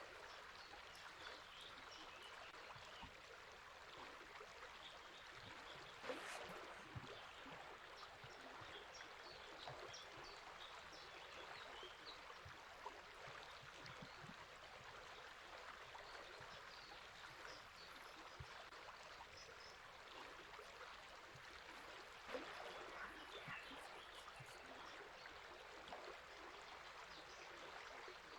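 Faint, steady babble of a flowing river, with scattered small bird chirps. There are two brief louder gurgles, one about six seconds in and one about two-thirds of the way through.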